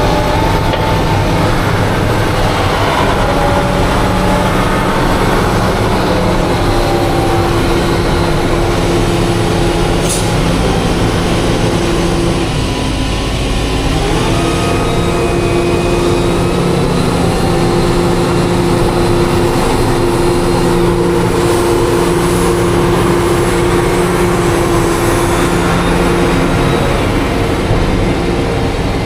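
Heavy diesel engine running steadily under load with a deep rumble. Its note sags about 12 seconds in and settles again at a slightly different pitch a couple of seconds later.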